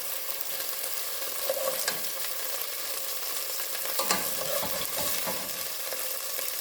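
Chicken breast pieces sizzling as they fry in a pot, a steady hiss, with a few light clicks of a utensil against the pot around two and four seconds in as pieces are lifted out.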